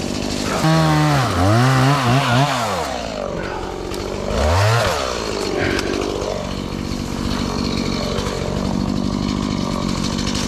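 Two-stroke chainsaw engine revved hard and let off several times in quick succession about a second in, then revved once more around four and a half seconds in. After that it runs on at a steadier, lower speed.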